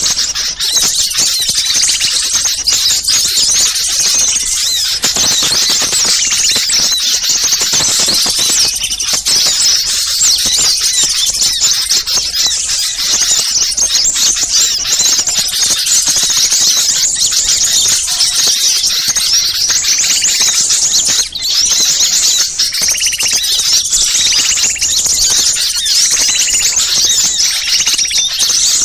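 A dense, unbroken chorus of many small songbirds chirping and trilling rapidly at high pitch. It is the agitated flock calling of small birds such as sunbirds and prinias, used as a bird-lure recording to draw in wild birds.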